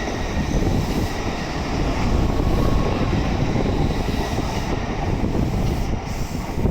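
Tokaido Shinkansen train moving along the platform: a steady rumble and rush of train noise.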